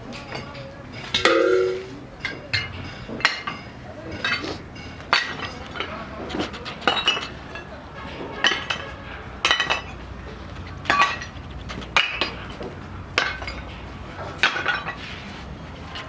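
Metal-on-metal strikes with a short ringing clink, about one a second and fairly regular, the loudest about a second in.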